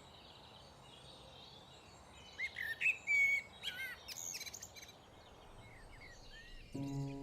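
Small songbirds chirping and calling over a faint outdoor background, with a burst of short, quickly rising and falling calls around the middle. Music with sustained notes comes in near the end.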